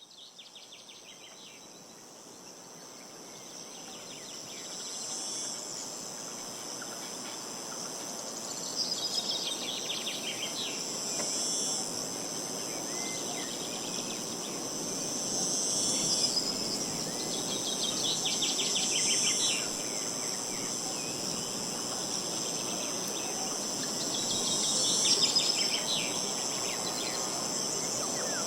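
Outdoor ambience of insects trilling steadily at a high pitch, with wind rushing underneath and a songbird singing a short phrase every few seconds. The sound fades in over the first few seconds.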